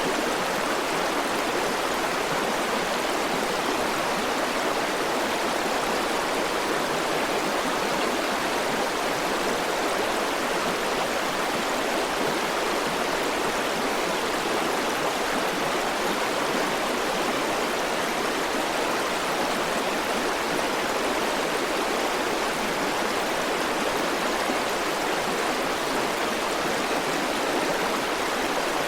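A river's flowing water rushing steadily, a continuous even wash with no breaks or changes.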